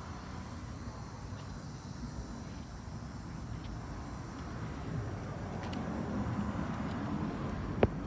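Steady outdoor background rumble, growing louder over the last few seconds, with a single sharp click near the end.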